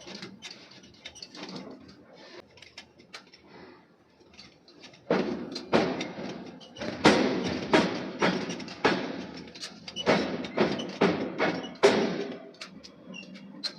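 Forging hammer striking steel: light scattered knocks at first, then a run of heavy strikes about two a second from about five seconds in, easing off near the end.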